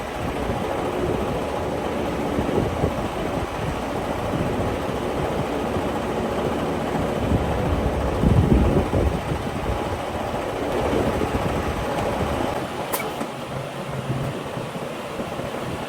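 Semi truck's diesel engine running with a steady low rumble. About 13 seconds in the rumble drops away and a single sharp click is heard.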